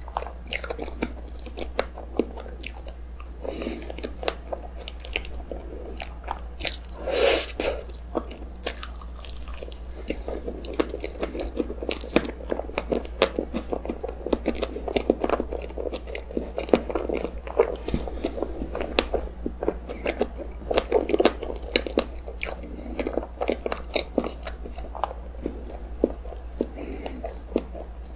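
Close-miked chewing of cream-filled roll cake: soft, wet mouth sounds and many small clicks, with a louder burst of chewing noise about seven seconds in.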